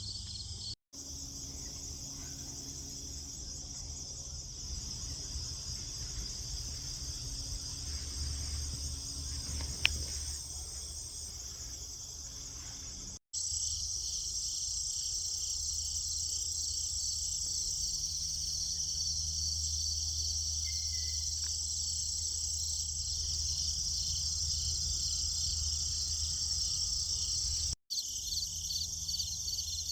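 Chorus of insects chirping, a steady high-pitched pulsing drone over a low rumble. The sound cuts out for an instant three times.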